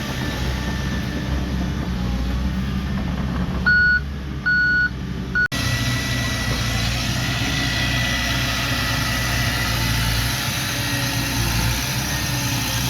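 Diesel engines of heavy earthmoving machinery running steadily. A reversing alarm beeps three times about four seconds in. The sound breaks off abruptly after the third beep, then the engines run on.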